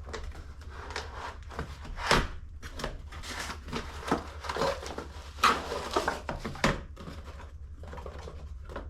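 Packaging being torn and crinkled open by hand, in irregular rustles and rips that are loudest about two seconds in and again from about five and a half to seven seconds in. A steady low hum runs underneath.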